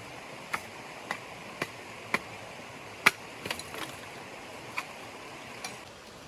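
A series of sharp knocks, about two a second at first, then irregular, the loudest about three seconds in with a quick cluster just after it, over the steady rush of a running stream.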